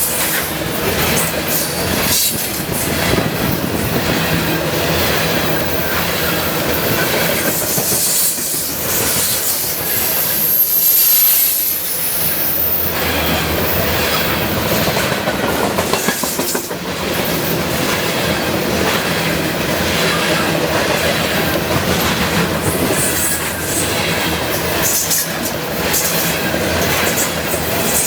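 Train cars rolling past on the main line: a steady rush of wheel and rail noise with repeated clicks as the wheels cross the rail joints, and a brief high wheel squeal about ten seconds in.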